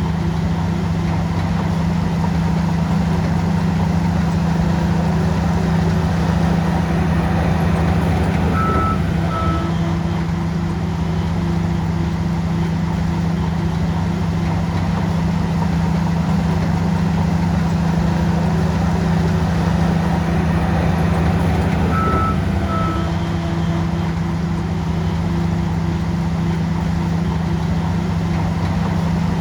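Heavy diesel engine of a bulldozer running steadily under load. A pair of short high beeps sounds twice, about a third of the way in and again about three-quarters through.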